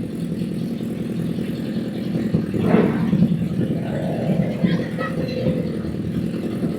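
Honda CBR1000's inline-four engine running under way on the road, with engine pitch rising briefly around the middle.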